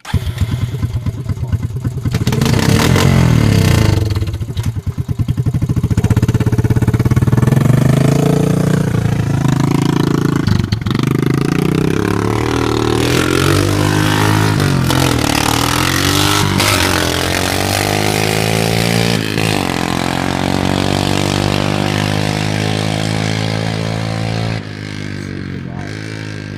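Honda FourTrax 350 ATV's single-cylinder four-stroke engine running loud through a muffler delete with no muffler, catching right at the start and revved up and down repeatedly, then settling to a steadier idle for the last several seconds.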